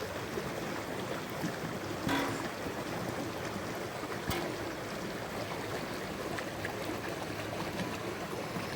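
Steady rushing water noise, with a single sharp click about four seconds in.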